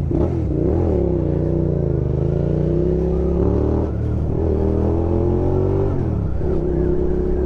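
Motorcycle engine running under load as the bike rides on, its pitch rising and falling through the gears, with dips about four and six seconds in, over steady wind rush.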